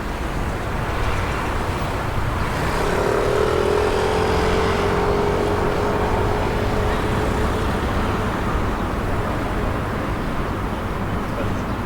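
Street traffic with a motor vehicle passing: its engine tone comes in about three seconds in, rises briefly and holds steady for about five seconds over a steady low rumble.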